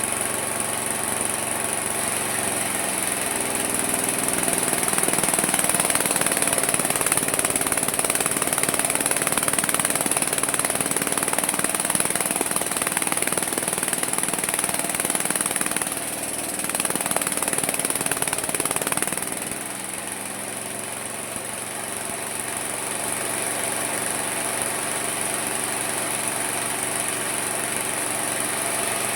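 Homemade mini sawmill running steadily, then cutting into wood from about three seconds in: the sound grows louder and denser, dips briefly, and eases back to free running about two-thirds of the way through. A steady high whine runs under it.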